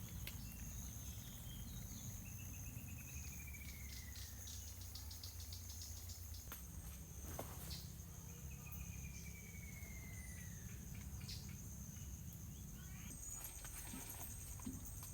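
Steady high-pitched insect chorus, with a second, higher insect joining near the end. Twice, several seconds apart, a bird gives a descending trilled call.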